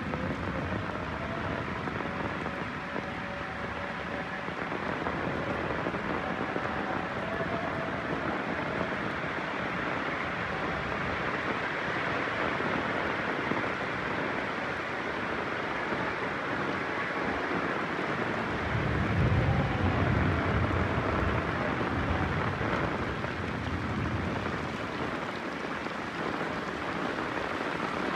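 Heavy rain falling steadily, with a low roll of thunder rumbling about two-thirds of the way through and fading over a few seconds.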